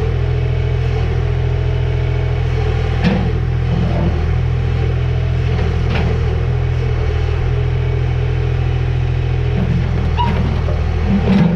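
Heavy-equipment engine running steadily at a constant speed, with a few light knocks over it.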